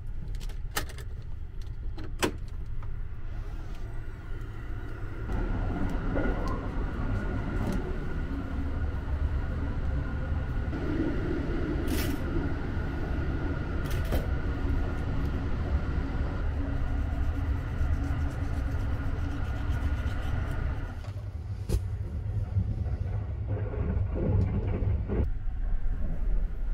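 Sleeper train running, heard from inside the car: a steady low rumble with a thin steady whine that stops about three-quarters of the way in, and a few sharp clicks.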